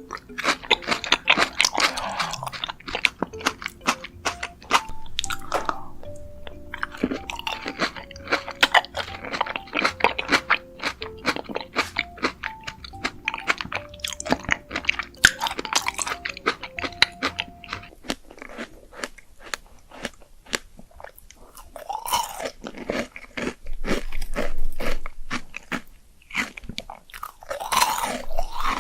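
Close-miked crunching and chewing of fruit in a mukbang: many sharp bites and crunches in quick succession. A soft background melody plays under it and stops about two-thirds of the way through.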